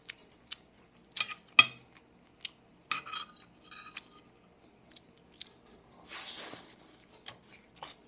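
Close-miked chewing and mouth sounds of a person eating pork, picked up by a small wireless microphone held up to the mouth: a scatter of sharp wet clicks and smacks, the loudest about one and a half seconds in, and a short breathy hiss about six seconds in.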